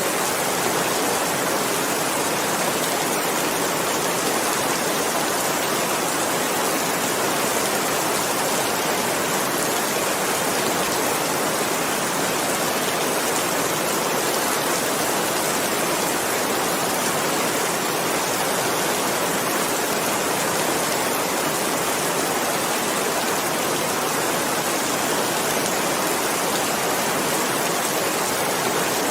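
Steady, dense rainfall, an even wash of falling rain that does not change.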